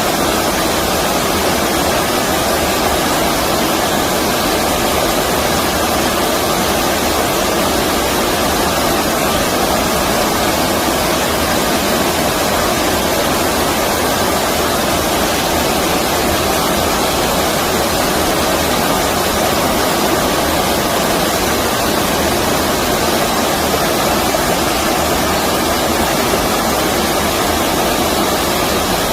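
Stream water rushing, a loud and perfectly steady noise with no breaks.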